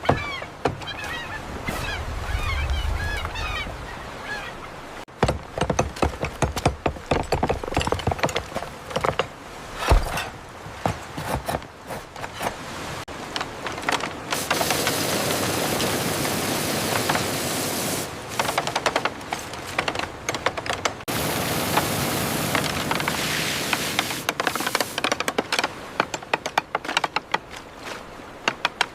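Layered construction sounds: a run of sharp knocks and clatter, with two long stretches of steady hissing noise from a power tool or spray in the middle. Bird calls come through in the first few seconds.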